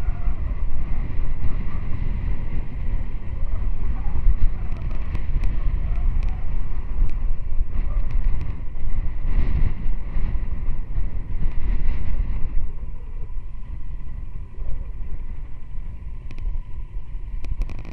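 Heavy, low rumbling wind noise buffeting the microphone.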